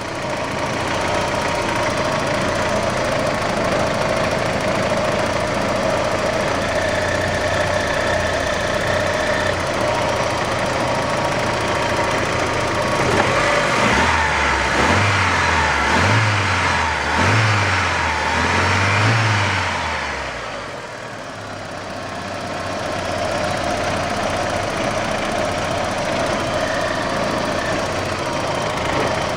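Opel C20NE 2.0-litre four-cylinder petrol engine in a 1993 Frontera idling steadily. About halfway through it is blipped up in revs several times in quick succession, then drops back to idle. This is a freshly fitted replacement engine, which so far seems not to knock the way the old one did.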